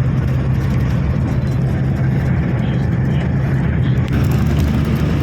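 Bus engine running steadily with a low drone and road noise, heard from inside the moving bus.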